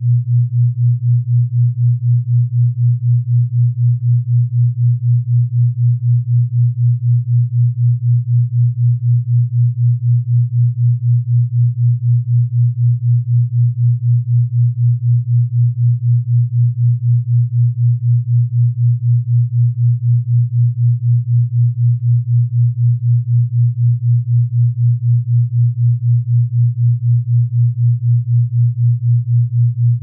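Brainwave-entrainment tone: a single low pure tone pulsing evenly in loudness several times a second.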